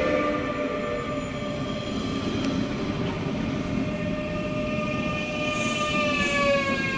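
Danish DSB passenger train running through the station: rail rumble under a steady drivetrain whine that glides slightly down in pitch near the end.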